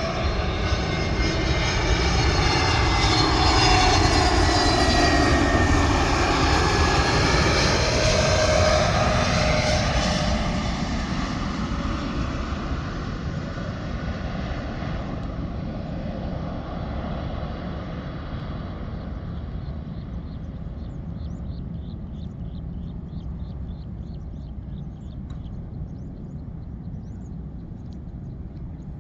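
A jet airliner passes close by. Its engine whine and rumble slide down in pitch as it goes, loudest a few seconds in, then fade steadily away. Faint rapid chirping comes through near the end.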